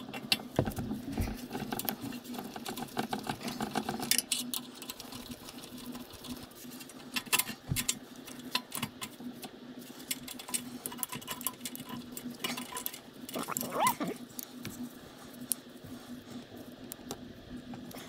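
Hand tools and loose metal parts clicking and clinking as a small engine's carburetor is unbolted and pulled off, with irregular light knocks and rattles over a steady low hum.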